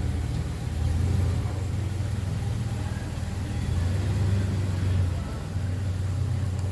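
A motor vehicle engine running with a steady low rumble that swells and eases slightly.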